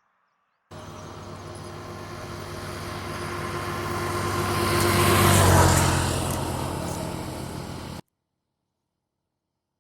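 A motor vehicle's engine running as it passes by, growing louder to a peak about five seconds in and then fading. The sound starts and stops abruptly, as if cut in and out.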